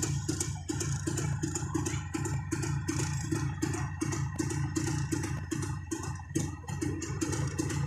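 Jawa 350 two-stroke twin engine idling steadily, with a regular knocking beat about four or five times a second over its low hum.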